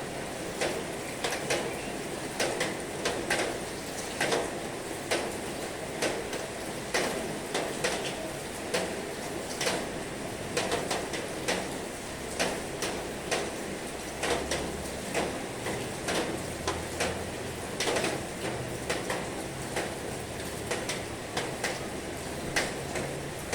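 Heavy rain: a steady hiss with sharp, irregular drops striking a hard surface, two or three a second.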